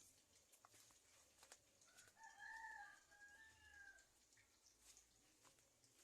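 A rooster crowing once, faintly, a single call about two seconds long that starts about two seconds in.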